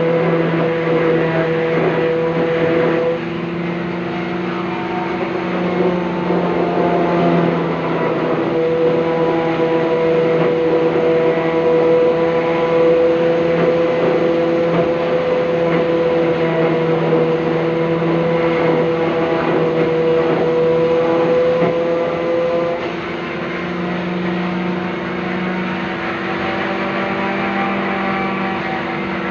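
Electric workshop motors running steadily with a loud hum. The pitch sags briefly about three seconds in and again near the end.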